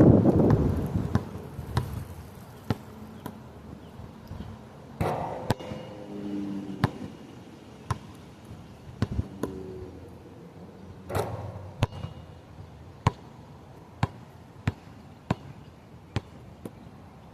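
Irregularly spaced sharp clicks and knocks, with louder thuds about five and eleven seconds in, over a rush of wind that is strongest at the very start.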